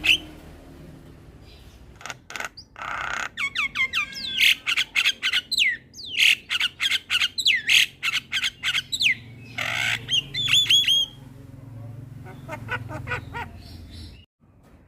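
Javan myna singing: quick runs of short whistles sliding in pitch, mixed with clicks and harsh squawks, with a longer rasping call about three seconds in and again near ten seconds. The sound drops out briefly near the end.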